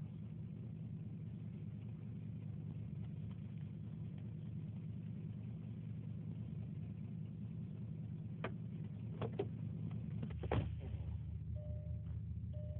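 A car running with a steady low engine and road rumble that deepens about ten seconds in. A few sharp clicks or knocks come near the end.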